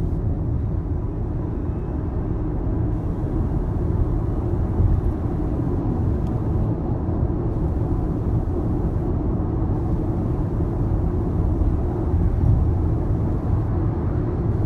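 Toyota Prius PHV on the move: a steady low rumble of road and tyre noise, without any rise in pitch.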